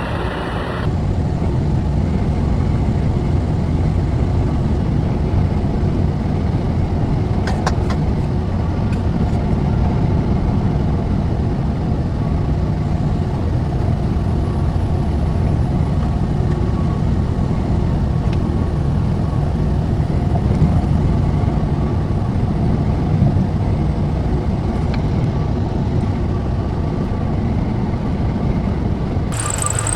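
Steady low rumble of a truck driving: engine and road noise, with no sharp events.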